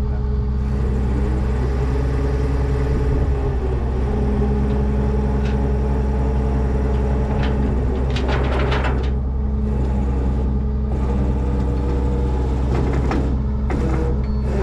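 Old Ford F700 dump truck engine running steadily, with a short burst of noise about eight seconds in.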